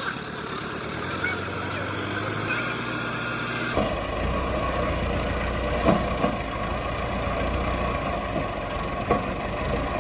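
Tractor engines running steadily, with a few sharp knocks in the second half. The sound changes abruptly about four seconds in.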